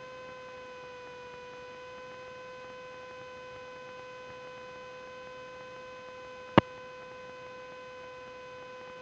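Steady electrical hum on one pitch with evenly spaced overtones in the cockpit intercom audio, with one sharp, loud click about six and a half seconds in.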